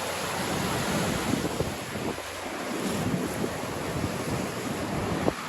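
Storm surf surging against a high seawall under blizzard wind, with the wind buffeting the microphone; a steady rushing noise that swells and eases.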